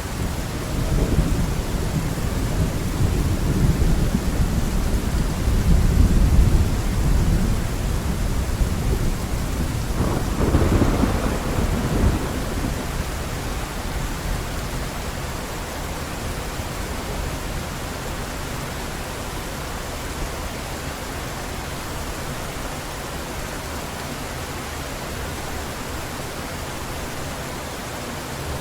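Heavy rain falling steadily under a long rumble of thunder, which swells again about ten seconds in and then dies away, leaving the steady rush of rain.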